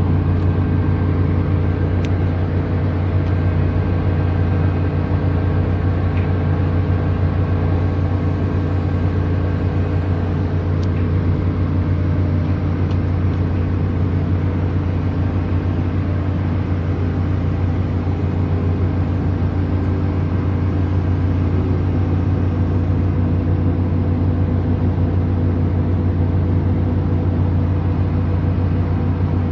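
An engine running steadily at one constant speed, a low drone that does not change.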